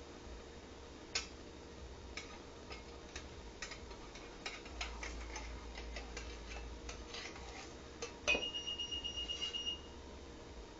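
Scattered light clicks and taps from kitchen work, then a sharp click followed by about a second and a half of rapid ticking over a high steady tone.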